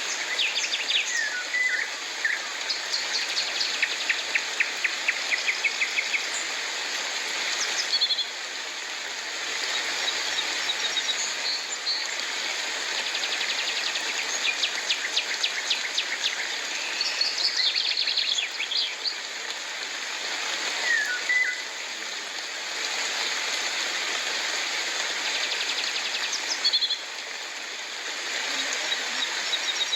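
Birds calling over a steady hiss of rain: repeated rapid trills of short notes, about four a second, and a few brief downward-swooping calls.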